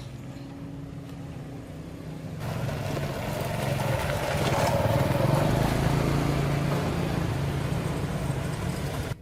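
A small petrol engine running, growing louder from about two seconds in to a peak around the middle, then easing slightly before cutting off abruptly.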